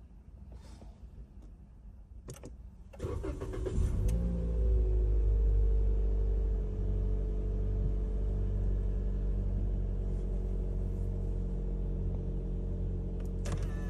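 Toyota Corolla Fielder's 1NZ-FE 1.5-litre four-cylinder engine cold-started: about three seconds in the starter cranks for roughly a second, then the engine catches and runs at a fast cold idle. It eases down slightly a couple of seconds later and then idles steadily. A sharp click comes near the end.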